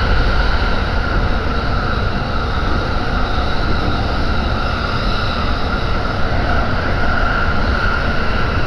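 Running noise of a Jōban Line commuter train heard from inside the car while it travels between stations: a steady low rumble of wheels on rail with a constant higher hum.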